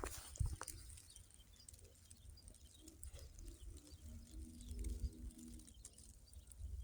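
A dove cooing faintly, a few low calls starting about three seconds in and running until nearly six seconds, over a low rumble.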